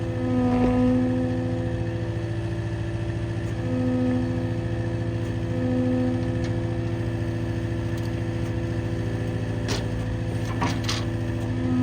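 Skid steer's diesel engine running steadily, swelling louder several times as it takes load, with a few short sharp knocks near the end.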